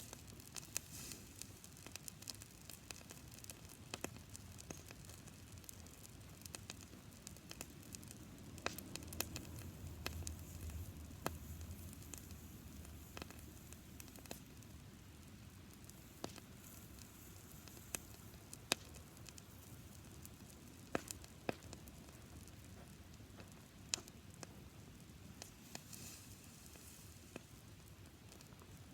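Campfire of dried grass crackling: scattered sharp pops and snaps over a faint hiss. A low rumble swells for a few seconds about nine seconds in.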